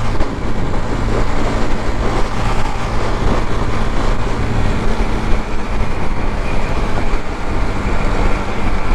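Suzuki GZ250's single-cylinder engine running steadily at freeway cruising speed, under a constant rush of wind and road noise.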